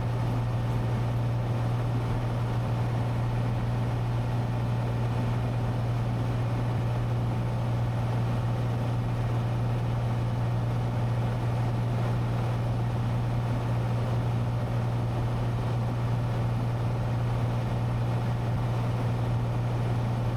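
Cessna 182T's single piston engine and propeller droning steadily in flight, a constant low hum with no change in power.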